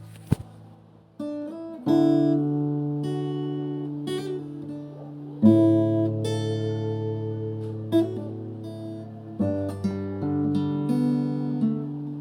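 Background music on acoustic guitar, strummed chords that ring and change every few seconds. A short sharp click comes about a third of a second in.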